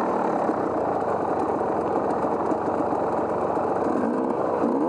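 Off-road vehicle engine running steadily, rising in revs near the end.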